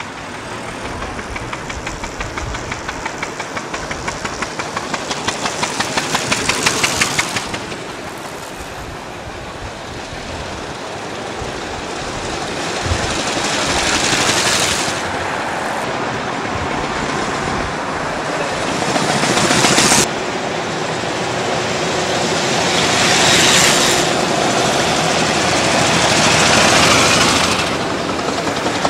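Veteran cars' engines chugging past in street traffic, with a fast, even beat that grows to its loudest about seven seconds in. The sound swells and fades several times as the cars go by, one swell dropping off suddenly.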